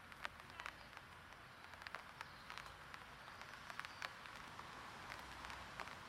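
Light rain falling: scattered drops ticking irregularly over a faint steady hiss.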